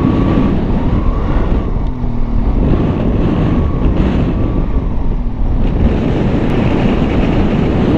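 Strong gusting wind buffeting the microphone, with a motorcycle engine running underneath.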